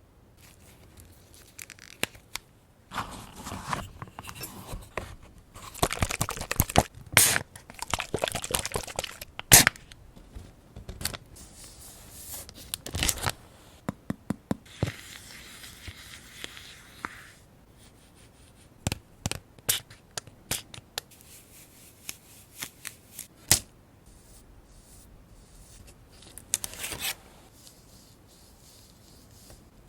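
Paper being handled: rustling and tearing in several stretches, with an even rasp lasting about two seconds near the middle, and scattered sharp taps and clicks that come more sparsely in the second half.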